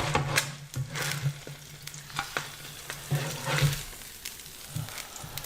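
Zucchini noodles sizzling in hot oil in a deep-dish skillet while a utensil stirs and scrapes them, with scattered clicks of the utensil against the pan, as they are lifted out before they burn.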